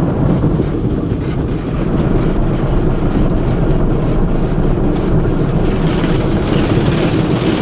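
Automatic car wash equipment running around the car, a steady loud low noise heard from inside the car's cabin.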